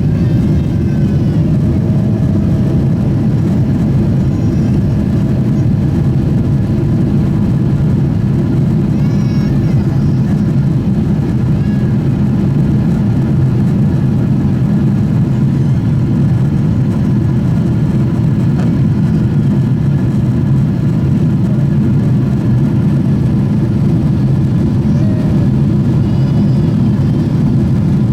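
Steady roar of a Boeing 777-300ER's GE90 turbofan engines and airflow, heard from inside the passenger cabin during the climb after takeoff. The low, even rumble holds at a constant level with no change in pitch.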